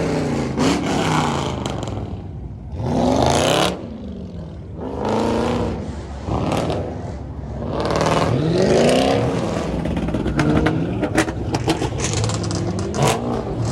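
Car engines revving in several separate swells, the pitch climbing and dropping each time, with a run of sharp cracks in the last few seconds.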